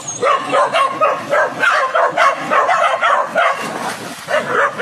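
A dog yipping rapidly, about three short yelps a second.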